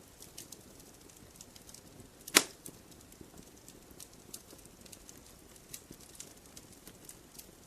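Wood fire in a fireplace crackling with irregular small snaps, and one sharp, loud pop about two and a half seconds in.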